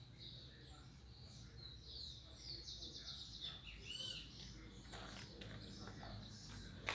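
Small birds chirping faintly, with a quick trill and a short upward-sweeping call a few seconds in, over a low steady hum. A few light clicks come near the end.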